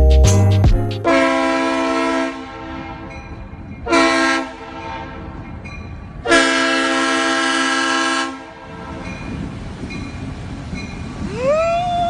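Train air horn sounding three blasts, a long one, a short one and a final longer one of about two seconds, over a low rumble. A rising, wavering tone follows near the end.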